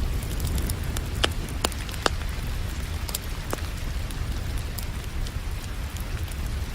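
Steady rain hiss with a low rumble underneath, and scattered sharp pops of a crackling wood fire, a cluster of them between one and two seconds in and another a little later.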